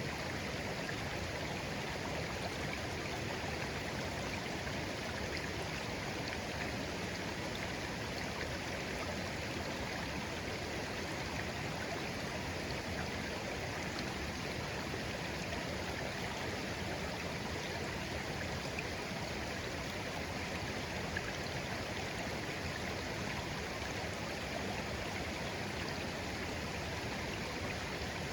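A shallow, clear stream flowing gently over stones, a steady babbling rush of water.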